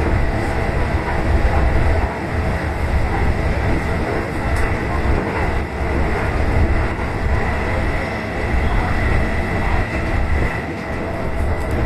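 Electric commuter train running at speed between stations: a steady rumble of wheels on the rails.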